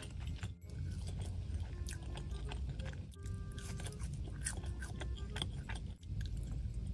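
Close-miked chewing and munching of cheese-covered fries, with many short wet clicks, over soft background music with a simple melody. The sound drops out briefly a few times.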